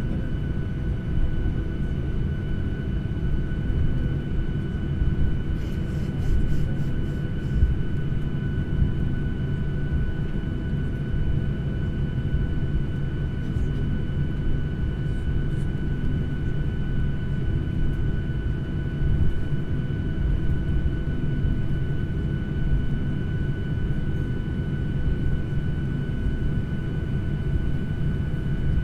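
Steady in-flight cabin noise of a jet airliner: a constant low rumble with a steady high whine over it. A brief run of faint ticks comes about six seconds in.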